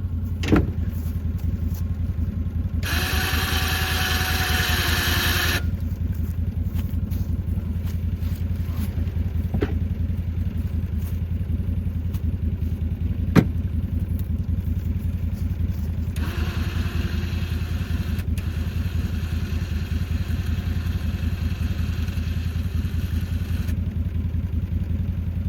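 Vehicle engine running steadily with a low drone, with stretches of louder hissing noise about three seconds in and again from about sixteen seconds in, and a few sharp knocks.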